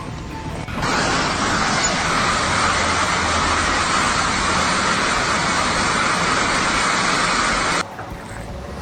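A steady, even rushing noise that cuts in abruptly about a second in and stops just as abruptly near the end.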